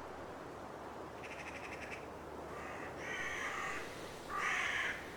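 Crows cawing: a rattling call about a second in, then three harsh caws, the last the loudest, over a steady faint hiss.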